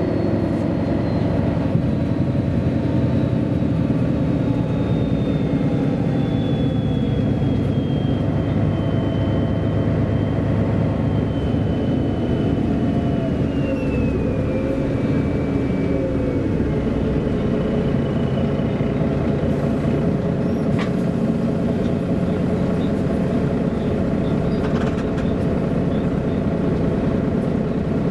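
MAN A23 articulated city bus driving, with steady diesel engine and road noise. A high whine slowly falls in pitch over the first half.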